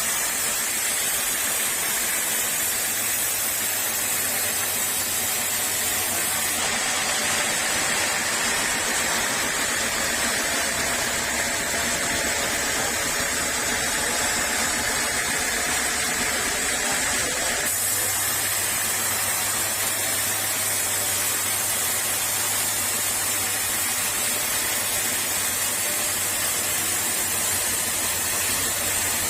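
Sawmill saw running and cutting teak, a steady loud hiss-like noise. It changes abruptly in character about 7 seconds in and again about 18 seconds in.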